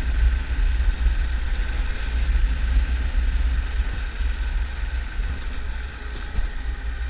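Triumph Tiger 1200 motorcycle riding on a dirt road, its three-cylinder engine running steadily under a heavy low rumble.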